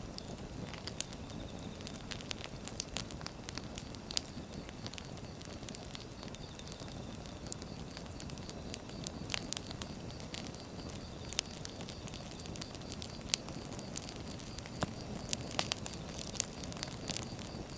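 Firewood burning: a steady low rush of flame with irregular sharp crackles and pops from the logs.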